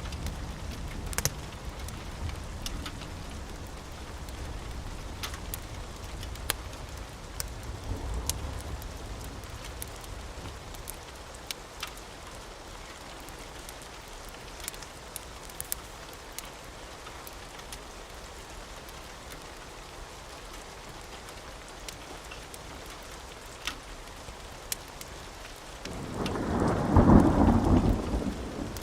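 Steady rain with scattered sharp crackles, and a low rumble of thunder that fades over the first ten seconds. A loud thunderclap rolls in near the end.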